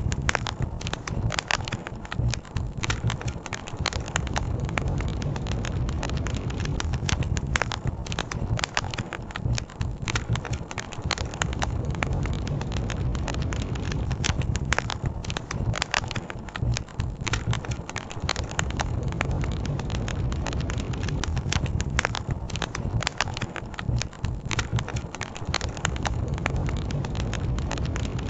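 Campfire crackling, with many small pops and snaps scattered unevenly, over a steady low rush of river water.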